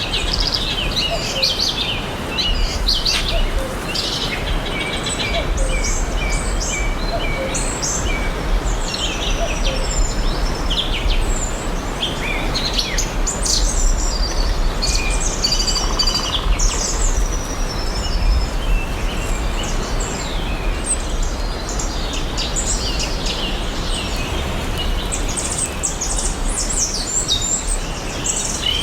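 Several songbirds chirping and singing in a forest, short calls and trills overlapping throughout, over a steady background hiss and a low rumble.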